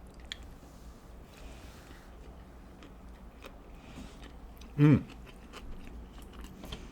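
A person chewing a mouthful of fried sushi roll, with faint scattered mouth clicks. About five seconds in there is one short falling vocal sound.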